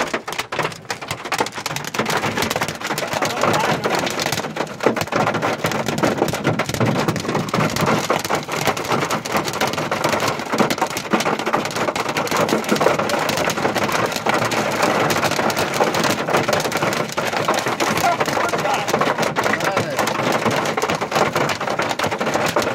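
Heavy rain mixed with hail pelting down, a dense, steady clatter of countless small impacts.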